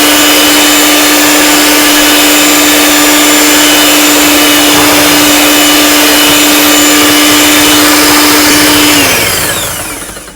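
Electric mixer running at high speed, whipping egg whites and sugar into macaron meringue that has not yet reached stiff peaks; a loud steady whine that winds down and stops near the end.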